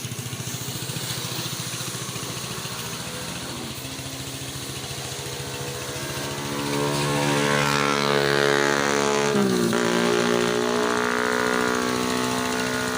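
Small engines running. A second engine tone joins about four seconds in, grows louder a couple of seconds later, and briefly dips and recovers in pitch at about nine and a half seconds.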